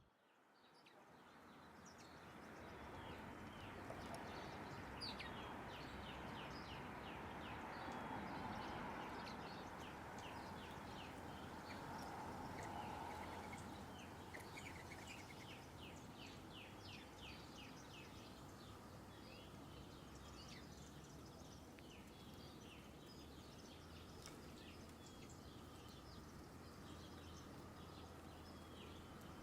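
Small birds chirping over a steady hum of outdoor background noise, with many short chirps throughout.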